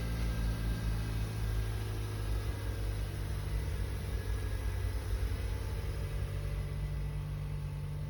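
A new Toyota Camry's engine idling steadily.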